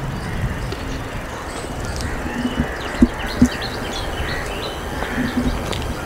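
Small birds chirping in many short, quick high calls over a steady low rumble, with two sharp knocks about three seconds in.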